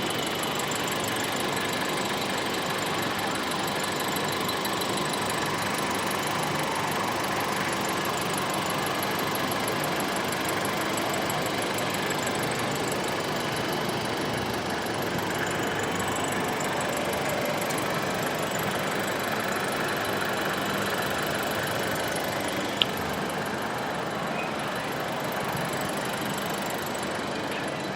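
Steady, even engine-like running noise, with one sharp click about 23 seconds in.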